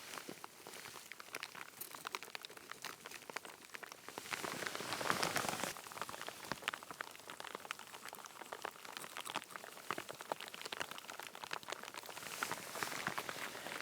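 Heavy rain falling, with many separate drops pattering close by. A louder stretch of noise comes about four seconds in and lasts under two seconds.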